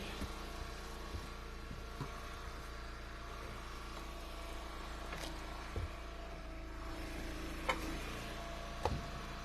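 An engine idling steadily, with several separate knocks of split firewood pieces landing in a pickup bed, the loudest two near the end.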